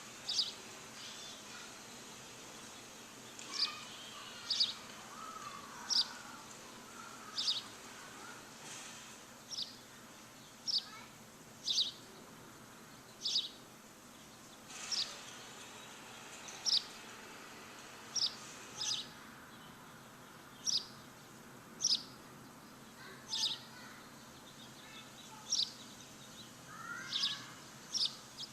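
A bird repeating a short, high, down-sweeping chirp about once every second or so, with softer, lower warbling from other birds now and then over a steady background hiss.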